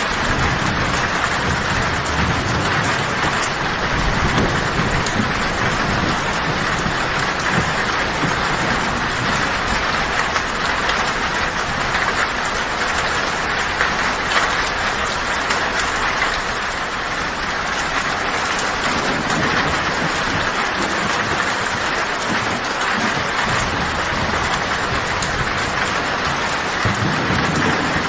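Heavy rain drumming steadily on a tin roof, with thunder rumbling low underneath. The rumble eases off past the middle and comes back near the end.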